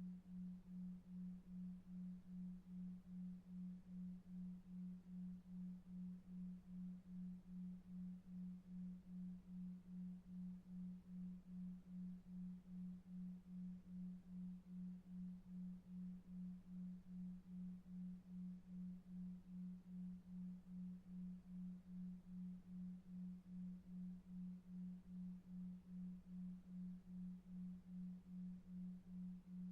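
Synthesized low sine tone pulsing evenly about two and a half times a second: a 2.5 Hz "delta wave" tone for sleep, over very faint brown noise.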